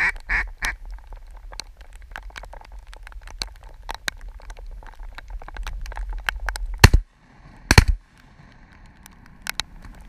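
Raindrops ticking irregularly on the camera, with a few duck quacks in the first second. Two loud, sudden knocks come about seven and eight seconds in.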